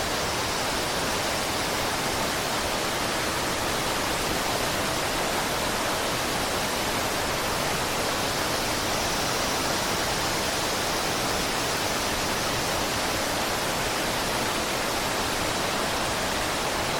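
Steady rush of a waterfall, falling water hissing evenly with no change in level.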